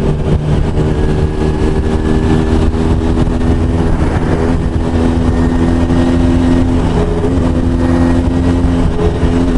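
Sport motorcycle's engine running steadily while riding at road speed, with wind and road noise rushing past the bike.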